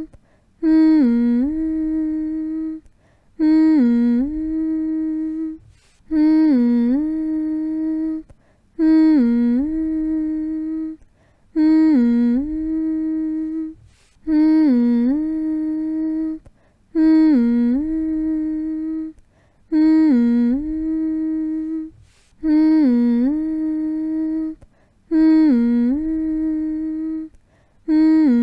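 A voice humming one note over and over as a lullaby. About ten hums, each about two and a half seconds long, dip in pitch at the start and then hold level, with a short silent pause between them.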